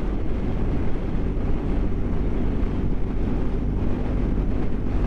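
BMW GS motorcycle riding at a steady speed: a constant engine drone mixed with wind noise on the microphone.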